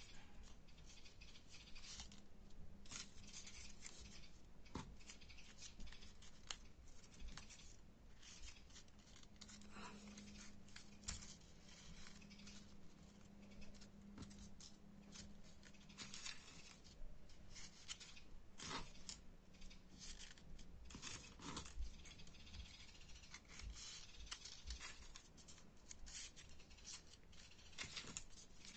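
Faint, irregular rustling and crisp clicks of folded paper origami units being handled and pushed into one another.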